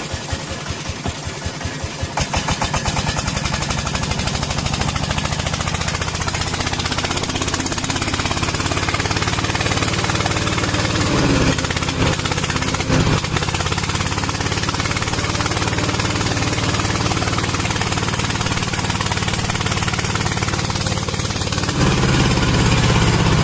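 Single-cylinder diesel engine of a công nông farm truck chugging steadily. Its separate beats run faster and louder about two seconds in, and it picks up again near the end.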